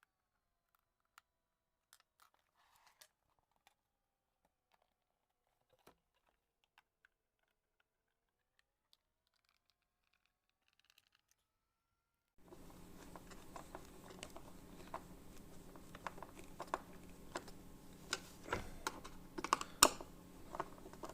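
Light clicks and taps of hand work while fitting lamp holders in place. Only faint scattered clicks at first; about halfway a steady low hum comes in, and the clicks grow louder and more frequent near the end.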